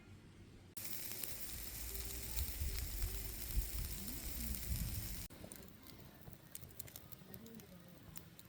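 Food sizzling over a wood fire: a loud steady sizzle that starts abruptly about a second in and cuts off suddenly about five seconds in, then fainter crackling with sharp pops from the burning wood.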